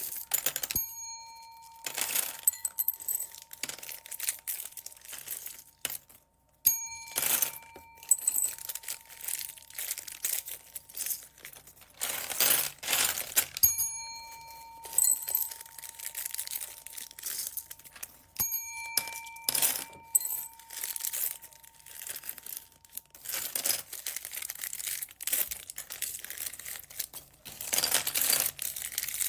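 Plastic bead bags crinkling and rustling in bursts, with a bell-like ding ringing out and fading four times.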